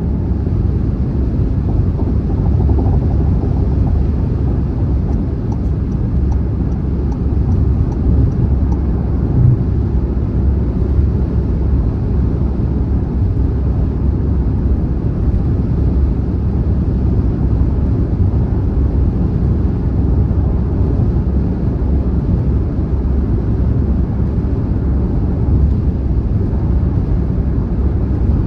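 Car driving on a highway: a steady, deep road and tyre rumble that stays even throughout.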